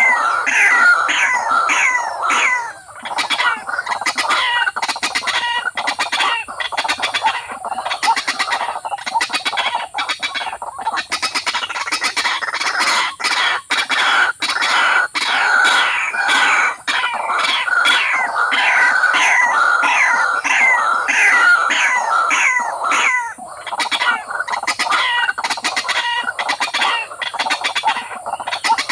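A bird calling over and over in fast clucking notes, several a second, with short breaks about three seconds in and again about twenty-three seconds in.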